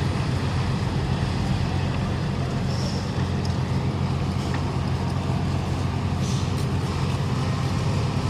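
Heavy diesel truck engines running steadily with a low, even drone as trucks drive off a roll-on/roll-off ferry.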